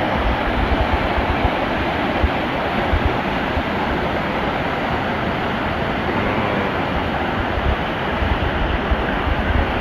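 Steady rush of a mountain stream running through rapids, with irregular low wind buffeting on the microphone.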